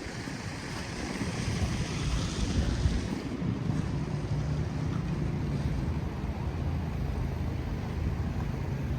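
Outdoor street ambience in a snowstorm: a steady low rumble of wind buffeting the microphone mixed with distant city traffic. A higher hiss fades out about three seconds in.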